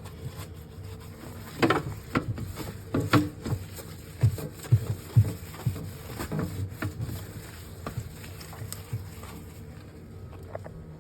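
Irregular knocks, taps and thuds of things being handled and set down, busiest in the first half and thinning out near the end, over a low steady hum.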